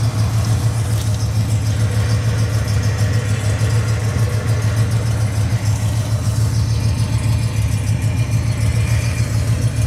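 1967 Cadillac Eldorado's 429 V8 idling steadily, heard at the tailpipes of its true dual exhaust.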